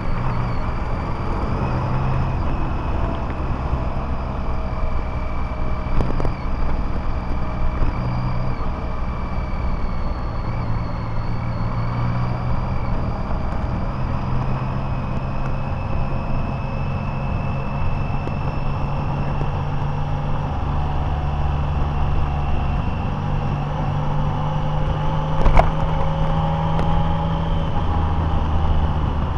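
Car driving along a road: steady engine and road noise with a faint whine that drifts slowly in pitch. A single sharp knock comes near the end.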